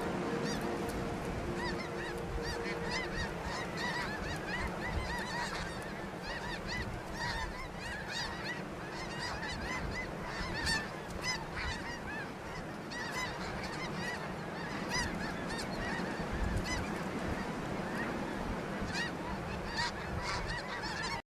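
A large flock of snow geese calling, a dense, continuous chorus of overlapping honks and yelps that cuts off abruptly near the end.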